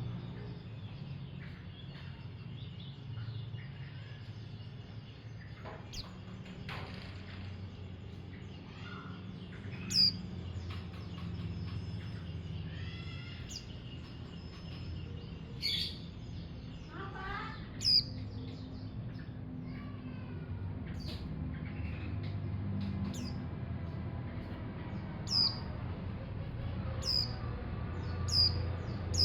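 Young mountain white-eye giving short, high chirps that slide downward, scattered every few seconds, with a few softer warbled phrases in between. A steady low hum runs underneath.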